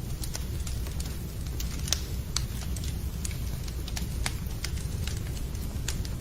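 Wood fire in a fireplace crackling: irregular sharp pops and snaps over a steady low rumble of burning, with one louder pop about two seconds in.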